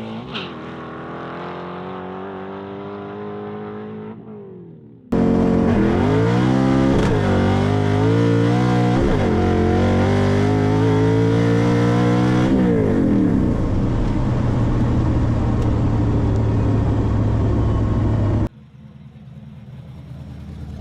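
Drag car engine accelerating hard under full throttle. Its pitch climbs and then drops sharply at each manual gear change, several shifts in a row. The loud run starts abruptly about five seconds in, after quieter engine sound, and cuts off abruptly near the end.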